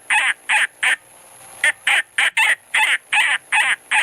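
Falcon giving a rapid series of harsh, repeated kek-kek calls, about three or four a second, with a short break about a second in.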